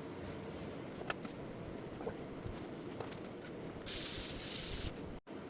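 A short burst of spraying hiss, about a second long, comes near the end over low room noise, with a few light clicks before it.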